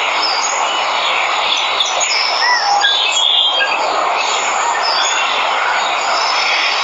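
Steady rush of a waterfall, with birds chirping over it in many short calls.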